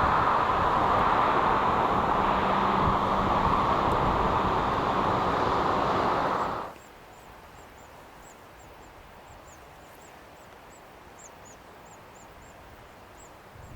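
Freight train rolling past, a steady rumble of wheels on rail that cuts off abruptly after about six and a half seconds. What follows is quiet, with a bird chirping faintly and repeatedly.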